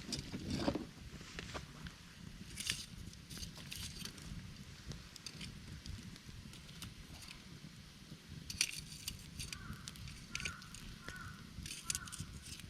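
Wood campfire crackling, with irregular sharp pops and snaps over a low steady rumble. A few short chirps sound around ten seconds in.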